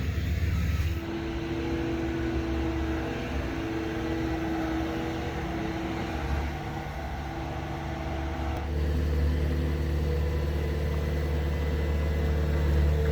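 A heavy vehicle's engine running steadily, its note shifting about a second in and again near nine seconds.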